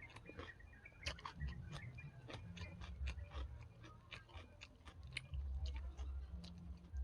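A person eating close to the microphone: wet chewing and biting with many sharp, irregular crunchy clicks.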